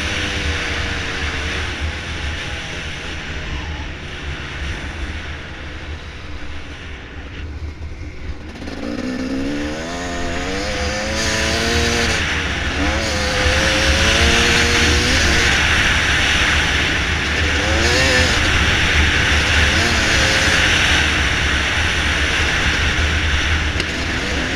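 Dirt bike engine under way, running quietly and easing off for the first third, then revving up and down repeatedly, over a steady rushing noise.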